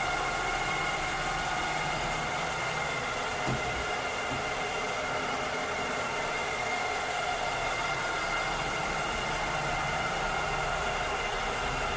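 A cleaning robot's motor running steadily: an even whirring rush with several steady high whine tones on top, and a faint tick about three and a half seconds in.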